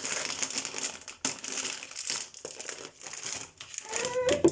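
Packaging crinkling and rustling as it is handled, in a run of crackles. A small child's voice comes in briefly near the end.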